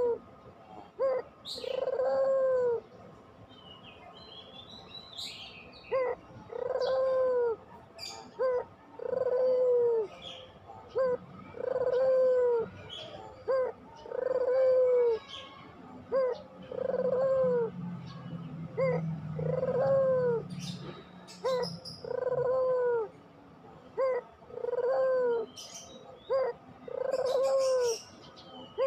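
Puter pelung (Barbary dove) cooing over and over: each call is a short note followed by a longer arched coo, repeated about every two and a half seconds. Faint high chirps from small birds are heard between the coos.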